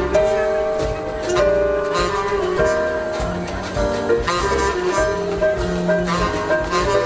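Live jazz band playing: held melody notes over bass, with drum strokes.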